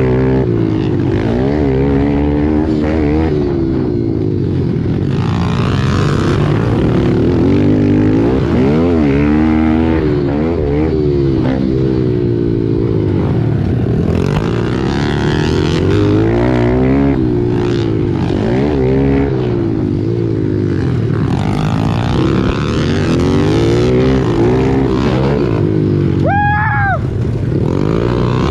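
Pit bike engines racing, revving up and falling off again over and over as the bikes accelerate and back off around the track. Near the end a brief high-pitched whine cuts in and bends down.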